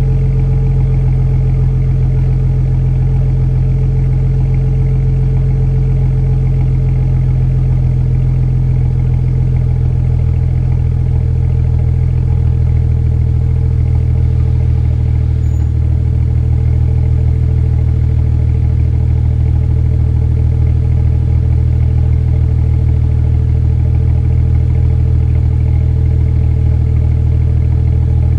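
2013 BMW 135is's turbocharged inline-six idling steadily after a cold start, with an even, unchanging note.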